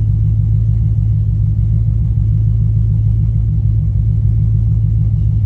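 Ford Crown Victoria V8 engine idling steadily at a low, even rumble, warmed up and left running to see whether a newly fitted 160-degree thermostat holds the coolant temperature down.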